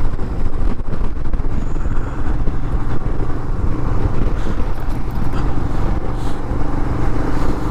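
Royal Enfield Himalayan single-cylinder motorcycle running steadily at highway speed, its engine mixed with heavy wind and road noise on the rider's microphone.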